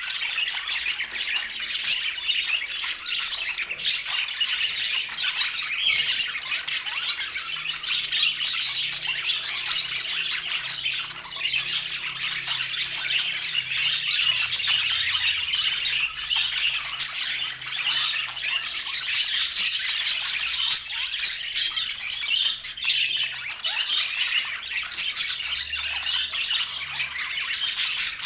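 A flock of budgerigars chattering, with many short chirps and squawks overlapping in a dense, continuous stream.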